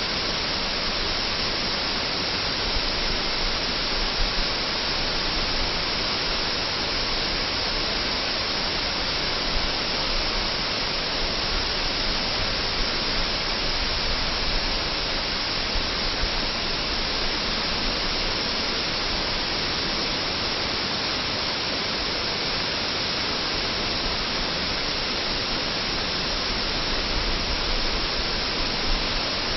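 Pradhanpat Waterfall's water pouring down onto rock and pool, an unbroken, even rush of noise.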